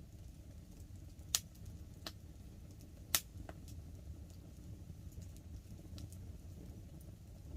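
Wood fire crackling under a low steady rumble, with two sharp pops, the loudest, about one and a half and three seconds in, and scattered fainter ticks.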